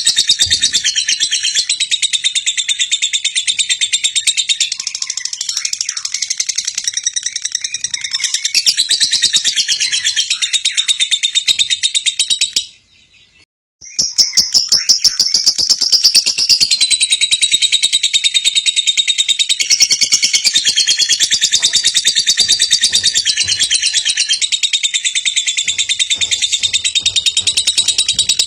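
Lovebird singing: a long, fast run of high chirps that breaks off for about a second around the middle and then carries on.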